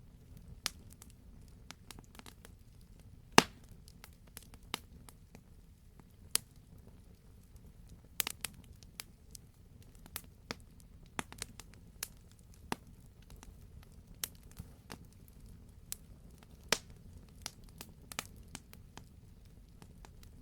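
Wood fire crackling in a fireplace: irregular sharp pops and snaps over a low steady background, with one loud pop about three seconds in.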